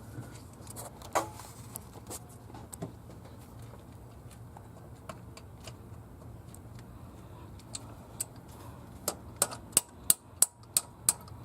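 Metal hand tools clicking and clinking while working on an engine, with a quick run of sharp, regular clicks about three a second near the end. A low steady hum runs underneath.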